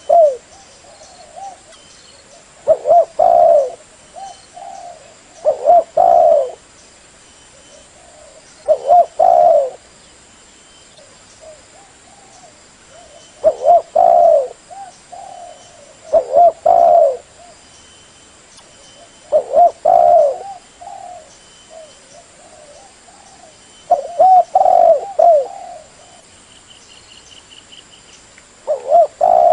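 Spotted dove (terkukur) cooing: short phrases of several quick coos, each about a second long, repeating every three seconds or so with one longer pause in the middle. Faint high chirping sits underneath.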